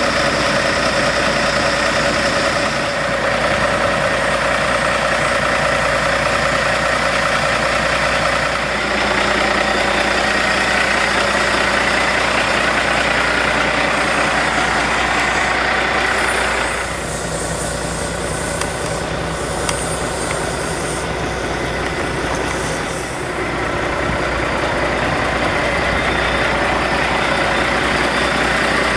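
Heavy diesel engine of a Peterbilt 386 semi-truck idling steadily, its tone shifting slightly partway through.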